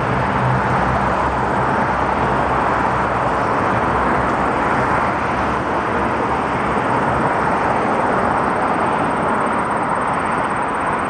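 Aircraft engines running, a loud, steady noise that holds level throughout.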